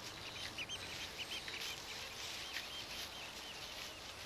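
Small birds chirping, many short repeated chirps, over soft, brief rustling noises.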